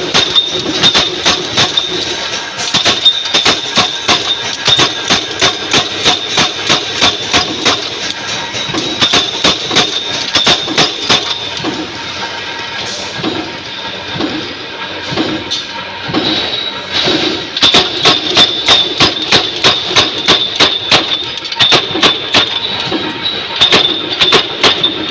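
Mechanical punch press stamping rings from 2.3 mm sheet stock: sharp metallic strokes, about two to three a second, over a steady high whine. The strokes thin out and soften for a few seconds midway, then resume at full rate.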